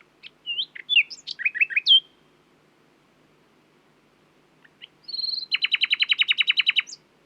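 A nightingale singing two phrases. The first is about two seconds of varied, quick whistled notes sliding up and down. After a pause comes a short whistle and then a fast, even run of about fifteen repeated notes.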